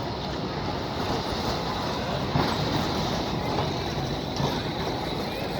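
Steady city-street traffic noise with a few light knocks.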